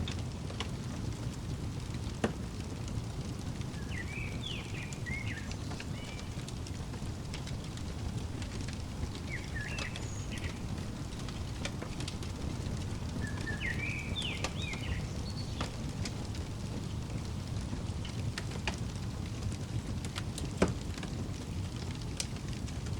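Wood fire crackling over a steady low rumble, with scattered sharp pops, two louder ones near the start and near the end. A bird sings short chirping phrases three times in the middle.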